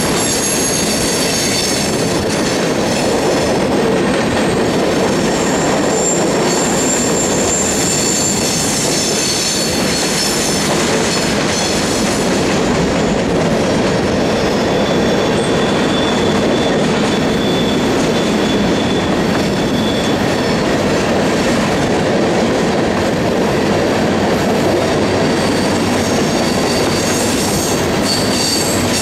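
Covered hopper cars of a freight grain train rolling past on curved track. The wheels make a steady loud rumble on the rail, with high-pitched wheel squeal that comes and goes several times.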